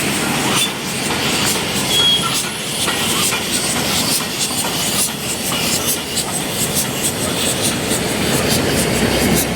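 Steam-hauled passenger train rolling past, its wheels clicking over the rail joints, with a brief high wheel squeal about two seconds in.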